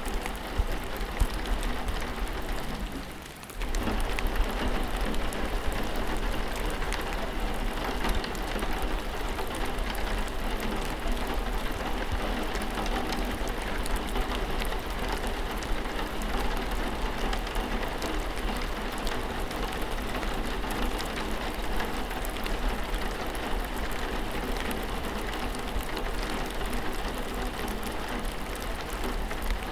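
Steady rain falling: a dense patter of individual drops over an even hiss. The sound dips briefly about three seconds in, then carries on as before.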